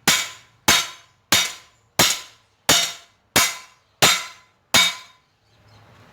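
Hammer blows on a piece of chainsaw bar steel on an anvil, forging it thinner. There are eight evenly paced strikes, about one and a half a second, each with a short metallic ring, stopping about five seconds in.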